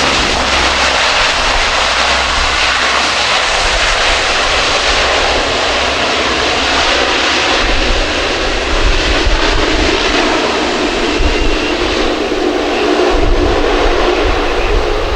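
Airliner engines running loud and steady, a dense unbroken rush of noise.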